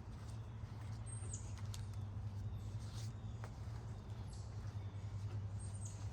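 Birds chirping: short, high notes that fall in pitch, repeated every second or two over a steady low hum.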